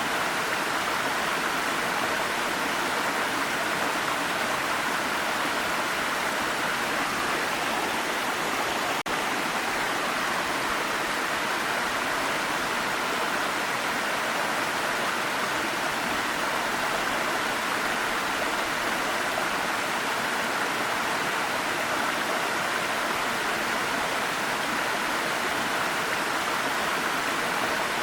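Waterfall: steady rushing, splashing water, with a split-second dropout about nine seconds in.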